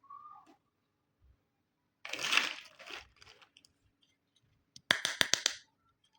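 Plastic toy packaging and pieces being handled: a short falling squeak at the start, a crinkling rustle about two seconds in, then a quick run of five or six sharp plastic clicks near the end.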